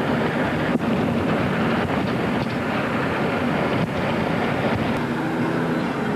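Steady running noise of a moving car, road and engine rumble with wind on the microphone.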